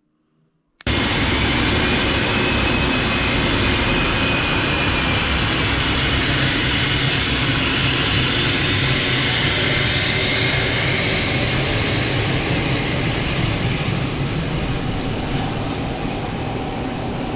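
Twin turbofan jet engines of a Cessna Citation Mustang running at high power: a loud, steady rush with a high whine on top. It starts suddenly about a second in and eases off slightly toward the end.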